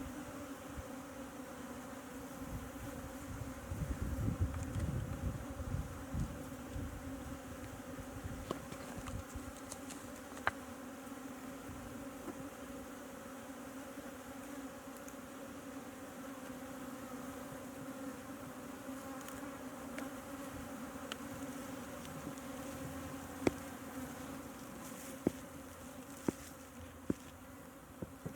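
Honeybees buzzing in a steady, even hum around an opened beehive. A low rumble comes about four to six seconds in, and a few sharp clicks come near the end.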